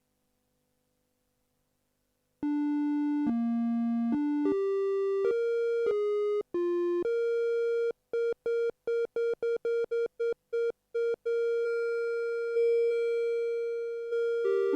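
TSynth, a Teensy 4.1-based polyphonic synthesizer, playing a plain single-note line in a basic waveform. After a couple of seconds of silence it plays a short run of notes stepping up and down, then one note repeated quickly, about three times a second, and then holds that note as it slowly fades.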